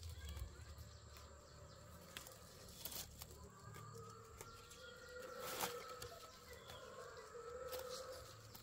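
Faint outdoor background with birds or chickens calling in drawn-out tones, and a few scattered light clicks.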